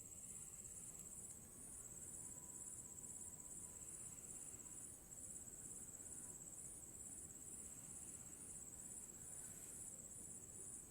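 Faint, high-pitched insect chirping, like crickets, pulsing steadily about two and a half times a second.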